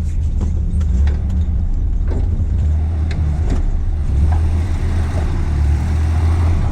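Nissan Patrol GU's TB48 petrol straight-six running low and steady while the 4WD crawls over rough track, with scattered knocks and clicks over the engine.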